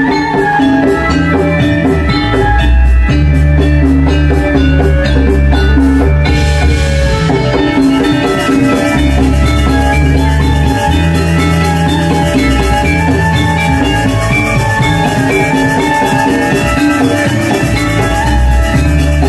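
Gamelan ensemble playing dance accompaniment: ringing metallophones over drums and deep sustained gong tones.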